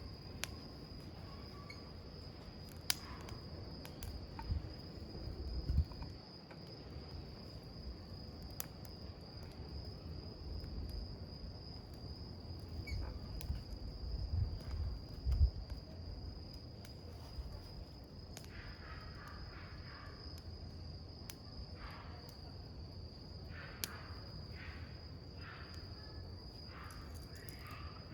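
A campfire of burning wood with scattered sharp crackles and pops, under an insect's steady high trill that does not stop. A few low thumps come in the first half.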